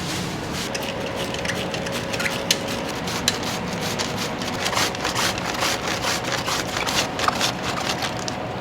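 Restaurant kitchen work: irregular sharp clicks and knocks of utensils and wood over a steady background rush, with a faint steady hum.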